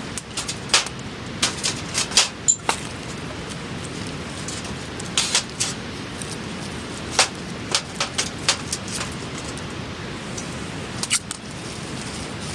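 Sharp, irregular clicks and knocks, clustered in a few bunches, over a steady low background noise.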